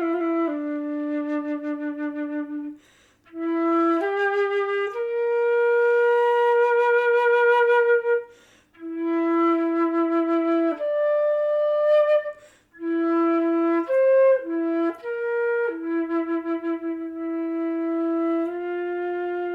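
Solo flute improvising slow, long held notes in its low register, some with a wavering vibrato. There are short gaps for breath about three seconds in, near eight and a half seconds and near thirteen seconds.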